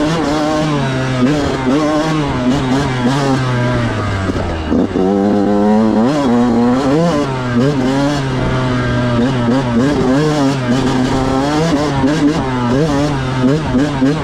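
Yamaha YZ125 two-stroke single-cylinder dirt bike engine being ridden, its pitch climbing and falling over and over with throttle and gear changes, with a dip and fresh rise about five seconds in.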